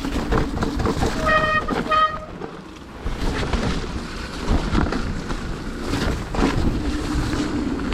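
Mountain bike riding downhill on a soaked trail: tyres on wet dirt, the bike rattling over bumps, and wind on the microphone. Two short honking tones sound about a second and a half in, the kind of honk that wet disc brakes make under braking.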